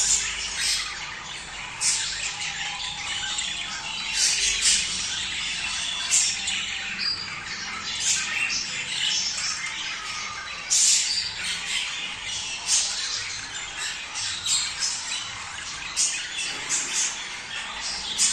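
Budgerigars chattering, with frequent short, sharp squawks and chirps. This is budgie breeding chatter, played to stimulate pet birds to mate.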